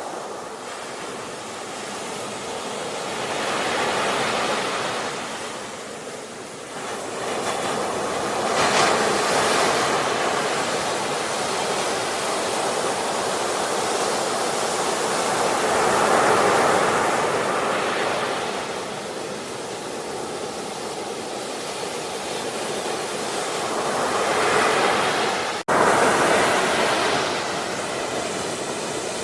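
Sea waves breaking and washing up the shore, the surf swelling and ebbing in four slow surges. A sudden split-second dropout near the end, like a splice in the recording.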